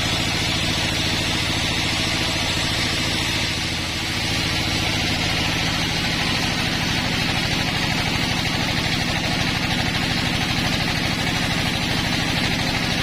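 Sawmill engine running steadily, with a constant hiss over its low drone.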